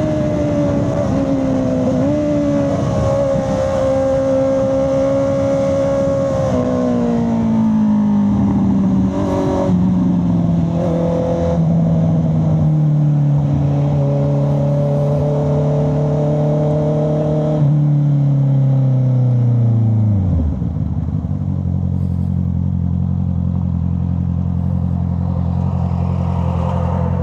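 Honda CB650R's inline-four engine and exhaust, its pitch falling steadily as the bike slows, with two brief rises in revs as it downshifts. About twenty seconds in the revs drop sharply and the engine settles into a steady idle.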